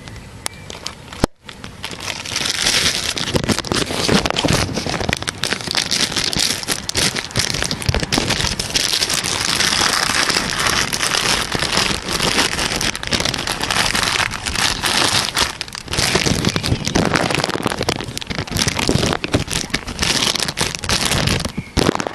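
Rain falling during a thunderstorm, light at first. After a brief dropout about a second in, it turns into a loud downpour, a dense patter of drops hitting close by.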